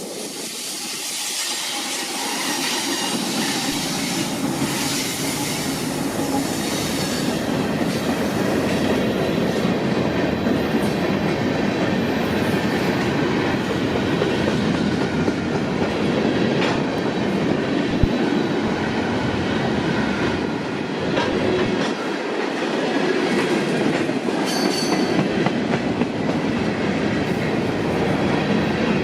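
Manifest freight train rolling past, its wheels rumbling steadily on the rails with a clickety-clack over the rail joints, growing louder over the first few seconds as it comes close, with a short high wheel squeal near the end.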